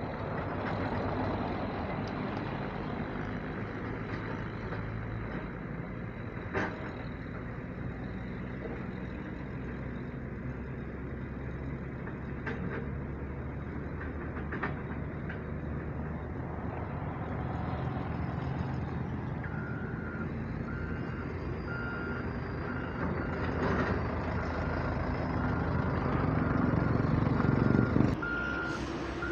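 Heavy diesel machinery running steadily at a loading site: a hydraulic excavator working beside a ten-wheel dump truck. About two-thirds of the way in, a reversing alarm starts beeping about once a second, and the engine noise grows louder toward the end.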